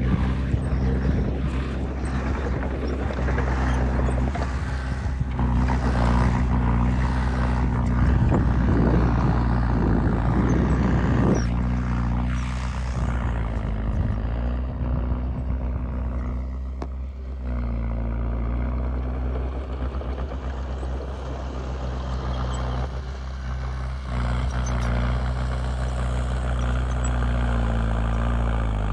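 Heavy diesel engine of earthmoving machinery running steadily, with a rougher, noisier stretch about a third of the way in.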